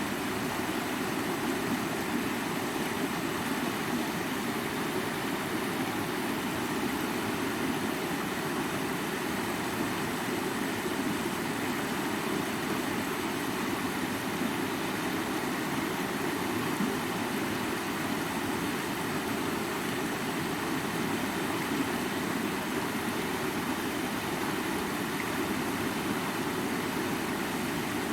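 Creek water flowing, a steady, even rush that does not change.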